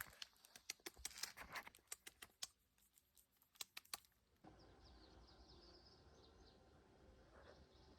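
Very faint scattered clicks and taps for about four seconds, then a sudden change to quiet outdoor background with faint bird chirps.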